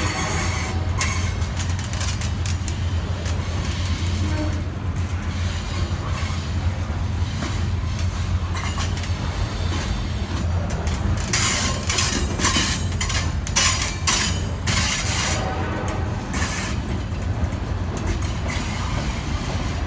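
Freight cars of a CSX manifest train rolling past: a steady low rumble of steel wheels on rail, with a stretch of sharp clicks and clanks about halfway through.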